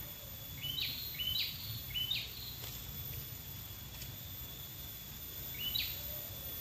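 A bird calling in short stepped chirps, three in quick succession about a second in and one more near the end, over a thin steady high whine and low outdoor rumble.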